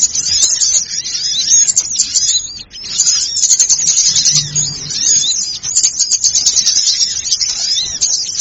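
Bird-lure recording of many small birds chirping and twittering in a dense, overlapping, busy chorus of quick high notes, with a brief gap about three seconds in and a short low note near the middle.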